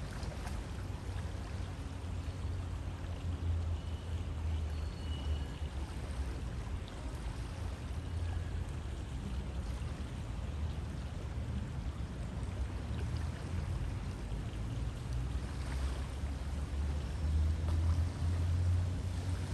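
River water flowing steadily: a continuous rushing with a deep low rumble underneath. A faint high chirp comes in briefly about four seconds in.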